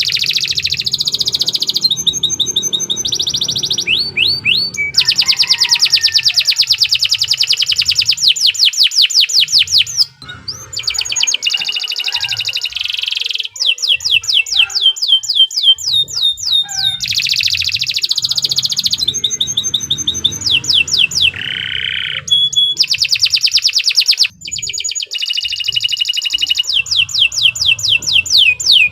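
Domestic canary singing a long, loud song of fast trills of rapidly repeated high notes, switching to a new trill every one to three seconds, with a brief break about ten seconds in.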